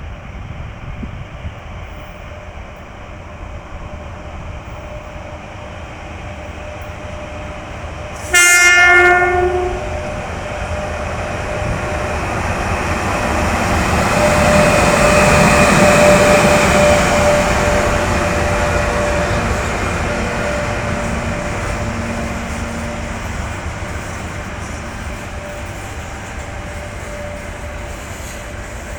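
2ES5K electric locomotive hauling a freight train past: a rumble that builds as it nears, one short horn blast about eight seconds in, then loud passing noise with a steady tone near the middle, easing off slowly as the wagons keep rolling by.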